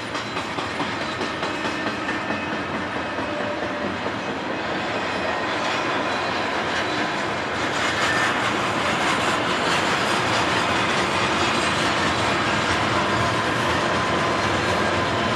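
Double-stack container train rolling across a steel trestle bridge: a steady rumble and clatter of wheels on the rails that grows steadily louder as the train's locomotives draw near.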